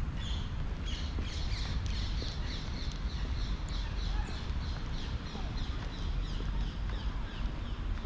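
A bird calling in a long run of short, high, falling notes, about three a second, under a steady low rumble of wind on the microphone.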